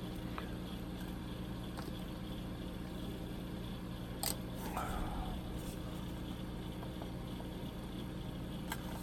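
Steady low electrical hum with a few faint, brief clicks and taps of small plastic model parts being handled.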